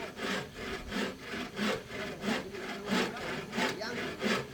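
Hand saw cutting wood in steady back-and-forth strokes, about three strokes every two seconds.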